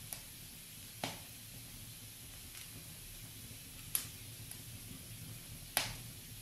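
Wood fire burning in a fireplace: a soft steady hiss of the flames with four sharp pops of crackling logs, the loudest two near the end.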